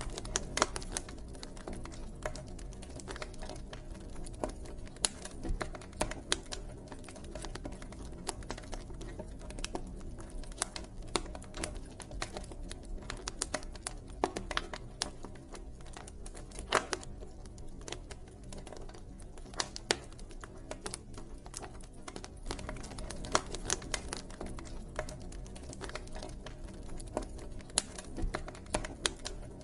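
Campfire burning, with irregular sharp crackles and pops of the wood over a low steady rumble of the flames.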